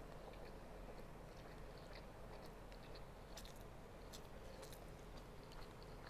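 Faint chewing of a mouthful of rice and chicken, with scattered small, sharp mouth clicks.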